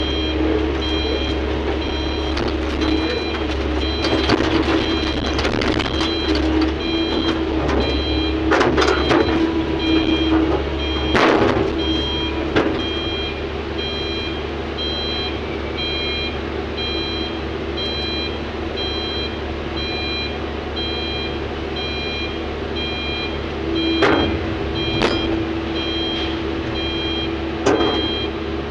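A heavy mining machine's reversing alarm beeps steadily and repeatedly over a diesel engine running at a steady pace. Several sharp knocks and clatters come through, a few near the middle and a few near the end.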